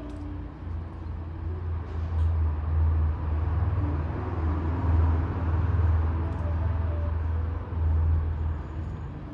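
Motor vehicle traffic passing in the street: a low engine rumble over road noise that swells through the middle and eases off near the end.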